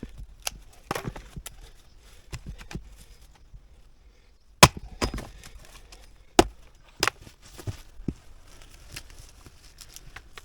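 Wood being chopped: three loud, sharp strikes about halfway through, the last two close together, with lighter knocks and cracks of wood around them.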